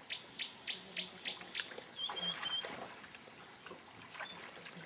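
Several wild birds calling together: a run of quick downward-sweeping chirps about three a second, high arching notes repeated in the second half, and a short level whistle near the middle.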